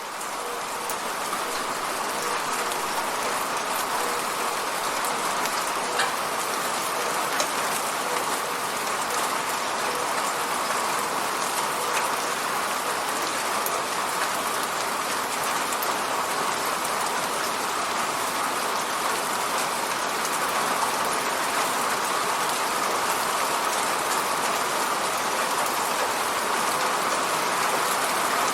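Steady rain pattering on a window, fading in over the first couple of seconds, with a few sharper ticks of single drops striking the glass.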